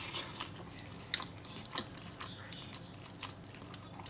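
Close-up mouth sounds of a person biting into and chewing chicken: scattered soft, wet clicks and smacks.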